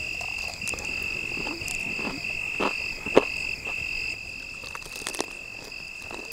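Crisp crunches of a person biting into and chewing a crispy fried chicken wing, the loudest crunch about three seconds in, with a few more near five seconds. A steady high-pitched trill with brief breaks runs behind it.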